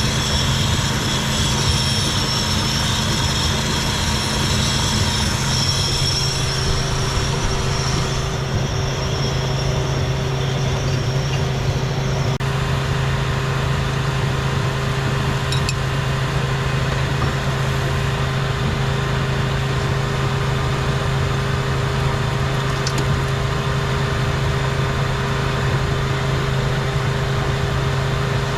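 Shop vacuum running steadily, its suction holding a vacuum on the skid steer's hydraulic tank so no oil drains from the open bottom fitting.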